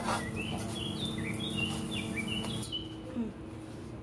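A small bird chirping over and over in quick short high chirps, over a steady low hum that cuts off about two-thirds of the way through.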